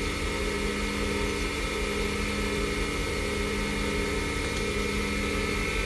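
Small wood lathe running steadily, its motor humming, while a towel is pressed against the spinning Padauk pen blank to friction-polish it and build heat in the finish.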